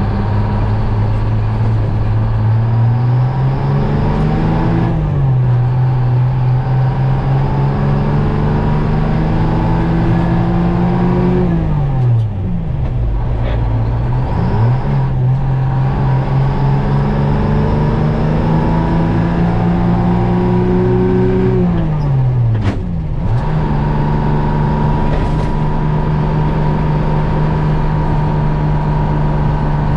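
Detroit Diesel two-stroke engine of a 1961 GMC Crackerbox cab-over semi pulling through the gears: the revs climb steadily and fall away sharply at each of three gear changes, then hold steady near the end.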